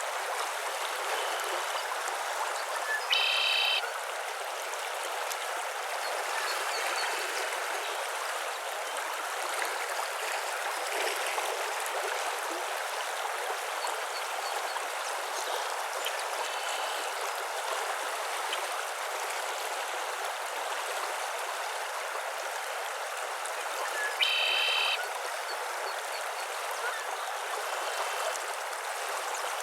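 Steady rushing hiss of running water, with faint scattered short calls. A louder, short, harsh animal call stands out twice, a few seconds in and again about three-quarters of the way through.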